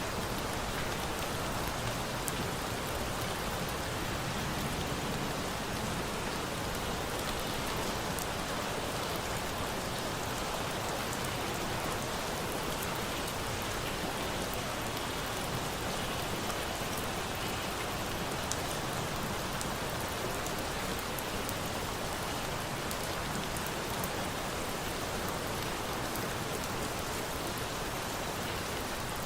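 Steady rain falling in an even hiss, with faint scattered ticks through it.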